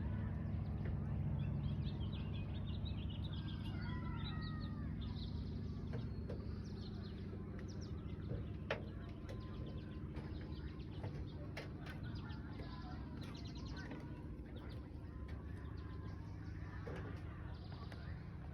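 Birds chirping and calling in short, quick notes over a steady low rumble, with a few sharp clicks.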